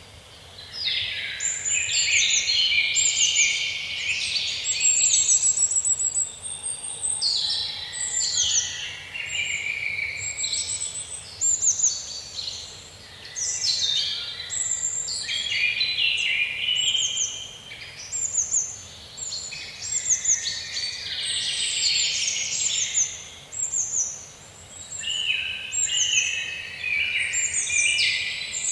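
Dense chorus of many birds calling over one another: high chirps, rapid trills and short downward-sweeping whistles, with brief lulls every few seconds.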